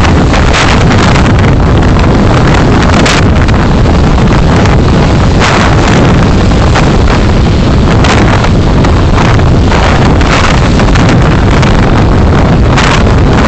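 Steady road and wind noise from a car on the move, heard through a dashcam microphone: a loud, dense rumble with brief rushes of hiss now and then.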